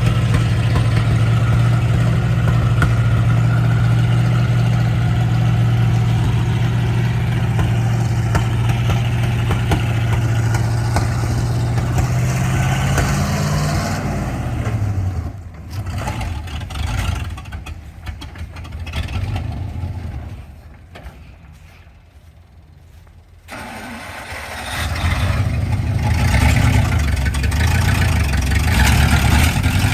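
Vehicle engine running at a steady speed, then its note drops and it dies away; after a lull of several seconds an engine starts and runs again.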